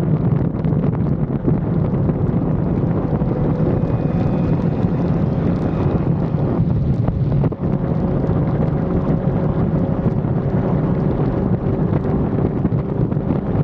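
Wind buffeting an action camera's microphone on a motorcycle at speed, with the engine's steady running underneath. The level dips briefly about halfway through.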